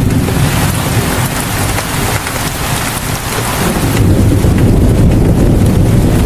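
Rain pouring steadily, with a deep low rumble underneath that eases off in the middle and swells again about four seconds in.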